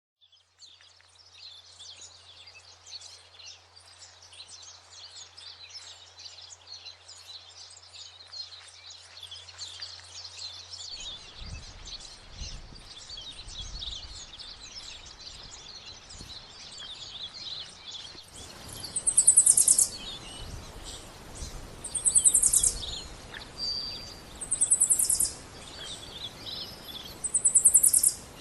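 Garden birds singing in a dense chorus of chirps. From about two-thirds of the way in, a louder, very high, rapid trill comes four times, a couple of seconds apart. A low rumble sits underneath in the second half.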